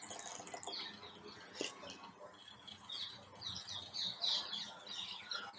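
Small birds chirping: quick runs of short, high, falling notes, busiest about three to four and a half seconds in.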